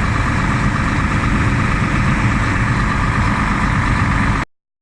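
New Holland CR9090 combine's diesel engine running steadily with a dense low rumble and a whine from the machine's drives. Near the end the sound cuts out completely for a moment, then comes back.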